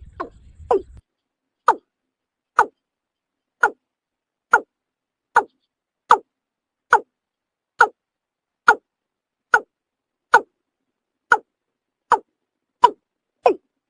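Watercock (kora) calling: a steady series of short, hollow notes, each falling in pitch, a little under one a second, that quicken near the end.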